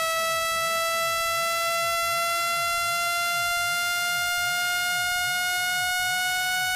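Synthetic buzzing tone, rich in overtones, gliding slowly and steadily upward in pitch: a speaker-cleaning tone played to vibrate water and dust out of a phone's loudspeaker.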